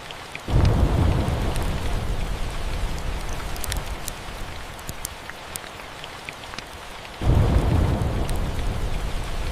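Steady rain with scattered sharp crackles, and two sudden claps of deep thunder: one about half a second in and one near the end. Each rumble fades out over a few seconds.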